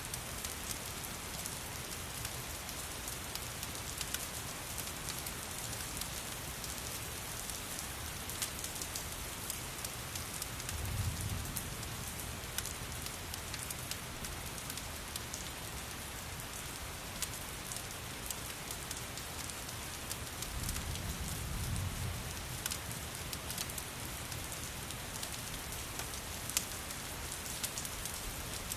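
Steady rain falling, mixed with a crackling fireplace whose sharp pops come scattered throughout. A deep low rumble swells up twice, about eleven seconds in and again about twenty-one seconds in.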